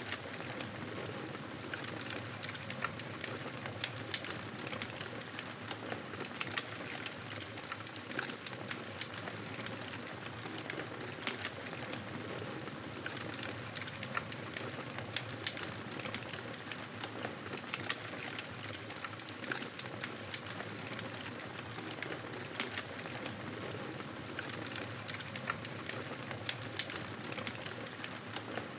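Wood fire crackling in a fireplace: a steady rushing noise with frequent, irregular sharp pops and snaps.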